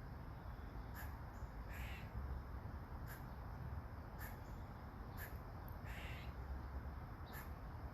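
Soft rain falling steadily, with sharp ticks every second or two. A crow caws twice, about two seconds in and again near six seconds.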